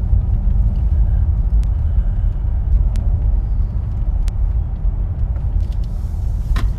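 Car driving along a road: steady low rumble of engine and tyre noise, with a few faint clicks.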